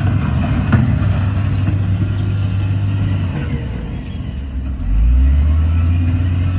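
Heavy diesel engine of earthmoving machinery running under load, easing off about three seconds in and picking up again about five seconds in, with a brief knock near the start.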